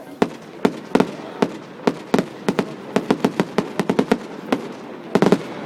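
Fireworks going off in a rapid, irregular series of sharp bangs, about twenty of them, with a dense cluster near the end.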